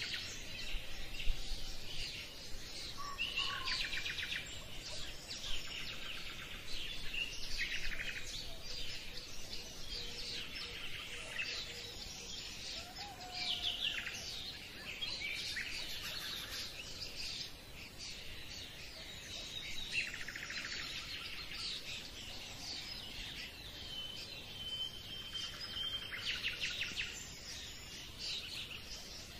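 Several birds chirping and singing, with rapid trills repeating every couple of seconds.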